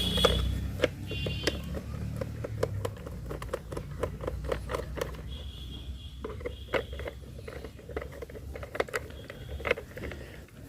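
Small screws being driven into a plastic toy car body with a hand screwdriver: a run of irregular quick clicks and scrapes, with a few brief high squeaks.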